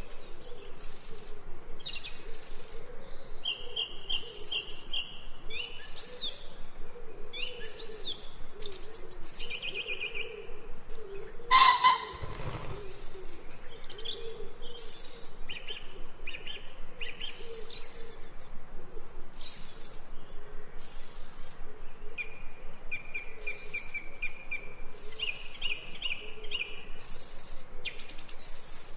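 Birdsong ambience: many small songbirds chirping, with rapid trills and short rising and falling whistles following one another throughout. About twelve seconds in there is one brief, louder sound.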